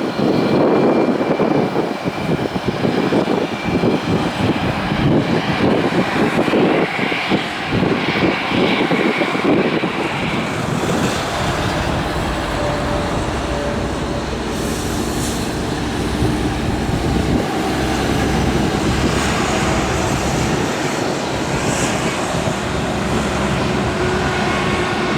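Boeing 737 MAX's CFM LEAP-1B jet engines running with a loud, steady rush. For about the first ten seconds wind buffets the microphone; after that the noise settles and a faint whine holds steady.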